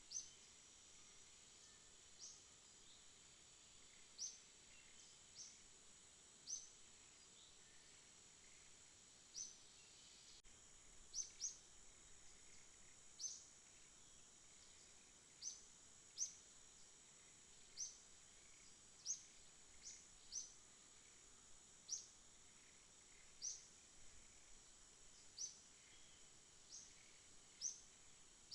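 Faint night-time nature ambience: short, high chirps repeating irregularly every second or two over a steady high-pitched insect drone.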